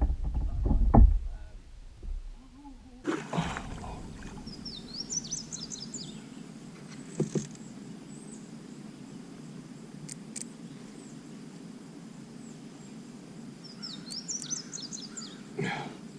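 Open-air ambience on the water: a steady low hiss, with a songbird singing the same short phrase of quick, high chirping notes twice, a few seconds in and again near the end. A brief low rumble comes in the first second.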